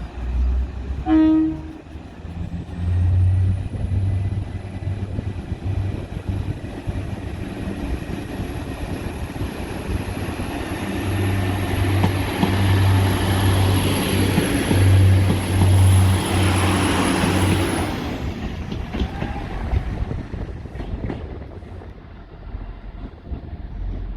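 Diesel multiple unit train sounding one short horn toot, then running past with a low engine throb and a high steady whine. The sound grows louder and then fades away about three-quarters of the way through.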